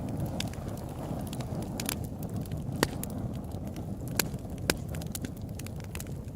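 Open-air wood campfire crackling: irregular sharp pops and snaps, a few louder ones in the middle, over a steady low noise of the burning fire.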